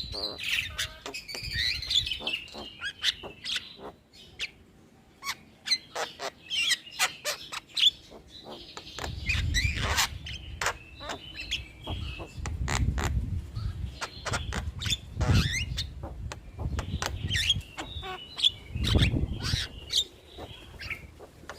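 Javan myna calling: a run of sharp clicks and short whistles mixed with harsh chattering phrases, with low rumbling noise underneath in the second half.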